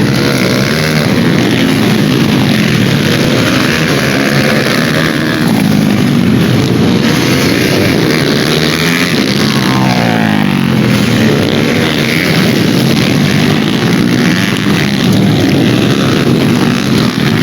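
Several dirt bike engines revving and running together, their pitch rising and falling and overlapping.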